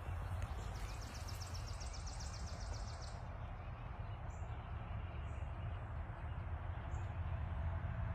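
Outdoor ambience with a steady low rumble. A bird sings a rapid, dry trill for about two seconds near the start, then gives a few short, high chirps.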